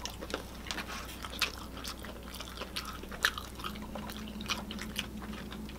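Close-miked chewing and mouth sounds of people eating fried chicken and rice: irregular soft wet smacks and small clicks.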